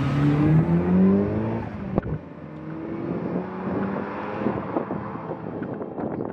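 Mazda MX-5's four-cylinder engine accelerating hard as the car passes, its note rising in pitch. About two seconds in there is a sharp click and the sound drops off abruptly; then a quieter engine note rises again as the car pulls away.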